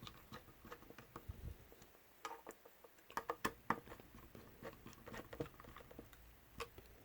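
Faint, irregular small clicks and taps of a small screwdriver tightening tiny screws into a drone's plastic body shell, with light handling of the parts.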